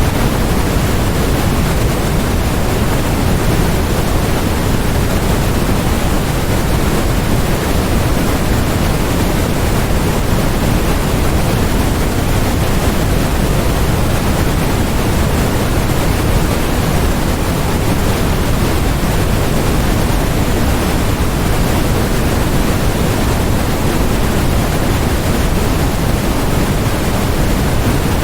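Steady electronically generated noise of the kind sold as white noise: a constant, even hiss, fuller in the low end than the top, with no change in level or character.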